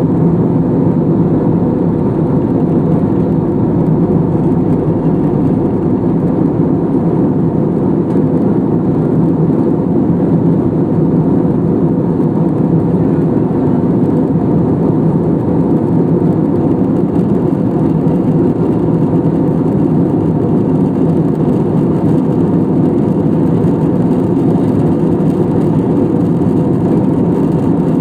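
Jet airliner cabin noise in flight: a loud, even drone of engines and rushing air that holds unchanged.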